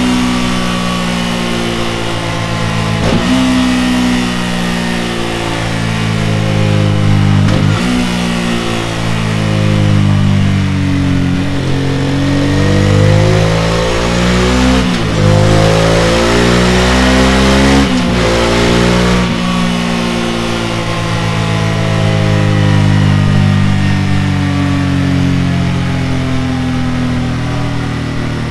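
Honda Deauville's V-twin engine running through a Delkevic oval stainless steel muffler under load on a dyno, its exhaust note climbing and dropping in pitch several times with a few brief breaks as the revs change.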